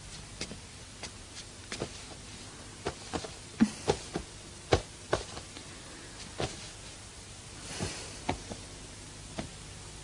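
Scattered sharp knocks and taps at uneven intervals, a few louder ones clustered around the middle, over a faint background hiss.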